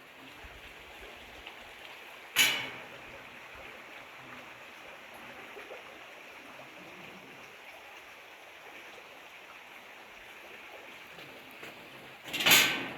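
Steady rush of a canyon creek, broken twice by a loud sudden clank that rings briefly: once about two seconds in and once near the end.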